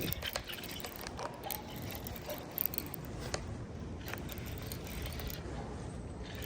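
Fishing reel being wound in, a steady mechanical whirring with a few sharp clicks near the middle.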